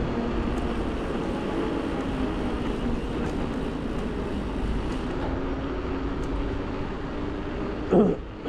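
Steady vehicle hum with rushing wind and road noise, heard while riding. About eight seconds in there is a brief, louder falling sound.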